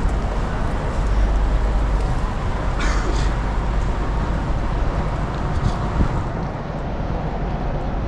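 Street traffic noise with wind buffeting the microphone, a steady rumble, and a short hiss about three seconds in.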